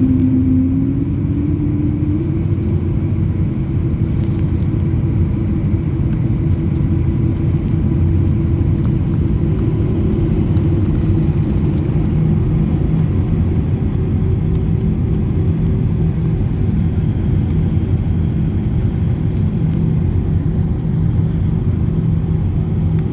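Jet airliner's engines running at takeoff power with a loud, steady low rumble; a low hum rises in pitch over the first couple of seconds as the engines spool up, then holds steady.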